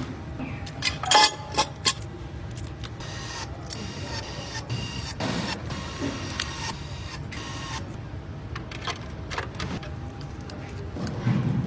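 Engine-assembly work: sharp mechanical clicks and clatter of tools and parts, loudest about one to two seconds in, over a steady low machine hum.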